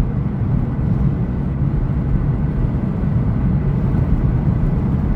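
Steady low rumble of road and engine noise inside a Volkswagen 2.5's cabin while driving.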